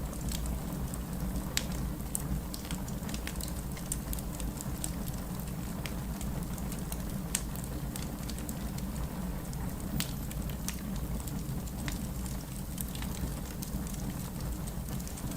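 Steady rain mixed with a crackling fire: a constant low rumble under many small irregular pops and snaps from burning wood.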